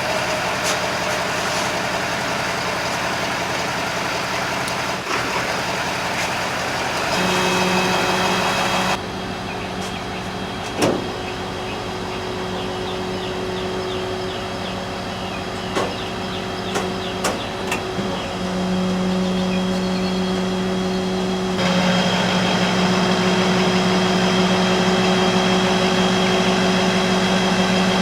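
Ford F-550's 6.7 L Power Stroke diesel engine running while the rollback bed's hydraulics are worked. The engine note steps up about seven seconds in, drops back about two seconds later, and rises again past twenty seconds. A few sharp clicks come in between.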